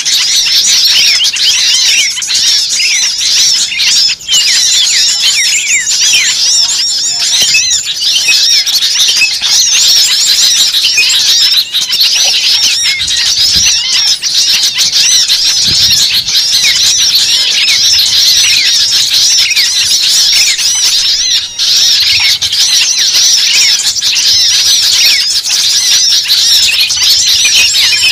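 A dense, continuous chorus of many small birds chirping and squawking over one another.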